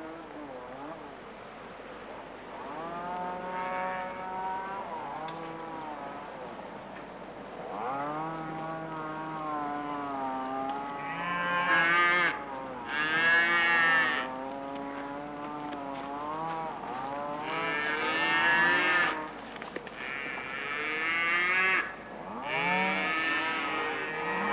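Several cattle mooing, long drawn-out calls overlapping one another, with the loudest calls in the middle and near the end.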